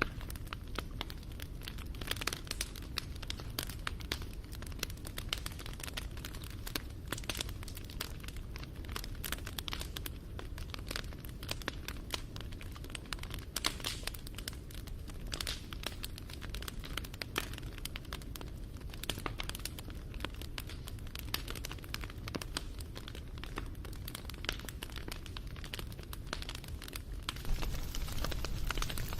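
Wood fire crackling: a dense run of small pops and snaps over a low, steady rumble of burning, a little louder near the end.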